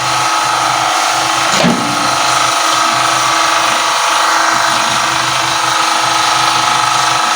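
BEKO microwave oven running with a steady hum and fan noise, a sign that it now powers up.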